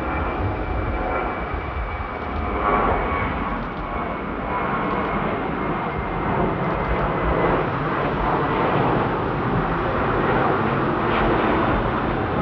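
Jet airliner engines at high power on departure: a steady, dense rumble, with a thin high whine over it for the first few seconds that then fades.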